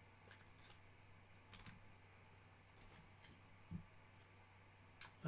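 Near silence with a low steady hum and a few faint, scattered clicks and taps.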